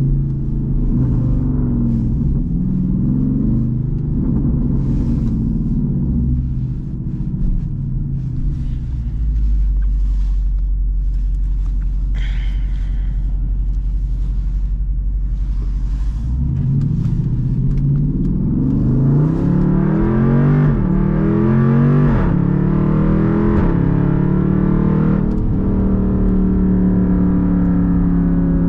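Straight-piped V8 exhaust of a Jeep Grand Cherokee SRT: the engine runs low and steady for several seconds, then revs up through several quick upshifts from about halfway through and settles into a steady drone near the end.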